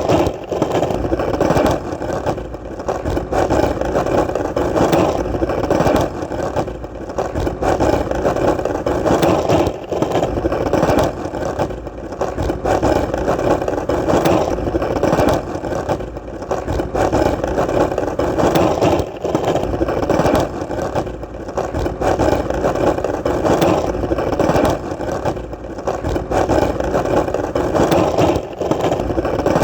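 Skateboard wheels rolling steadily on hard ground, a continuous rolling noise that dips briefly every few seconds.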